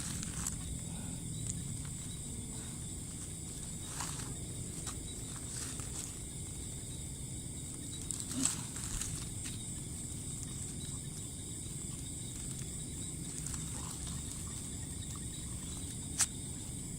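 Steady high-pitched chorus of insects over a low rumble, with a few sharp clicks, the loudest one near the end.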